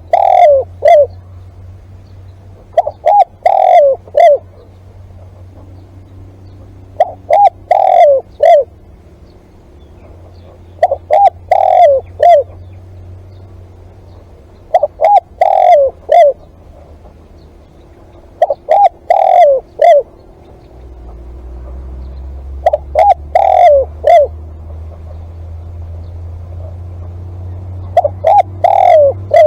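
Spotted dove cooing: a short phrase of several notes, repeated about every four seconds, eight times. A low steady hum runs underneath and grows louder about two-thirds of the way through.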